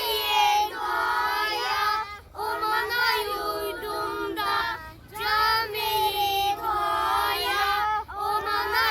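Children singing a Turkish song about seeds growing into saplings, in phrases separated by brief pauses.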